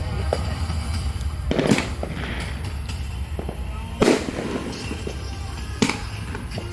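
Aerial fireworks shells bursting: three sharp booms roughly two seconds apart, each with a brief rumbling tail, over music played along with the show.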